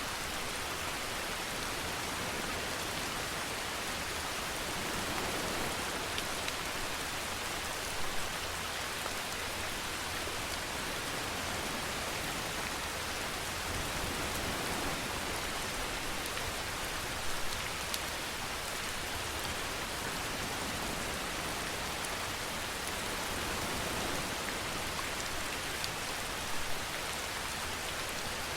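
Steady rainfall, an even hiss of drops on a surface, with a few brief louder patters spread through it.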